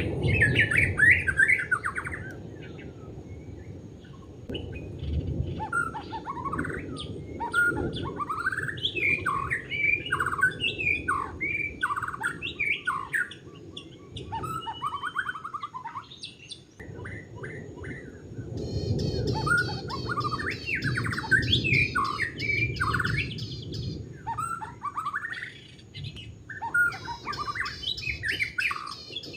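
White-rumped shama singing a long, varied run of quick whistled and chattering phrases, with a brief lull midway, over a low rumble.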